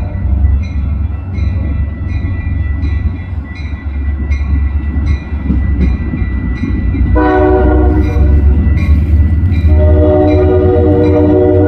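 Train with a multi-note chime horn sounding two long blasts, one about seven seconds in and another near the end, over a deep steady rumble. A regular ticking about twice a second runs underneath.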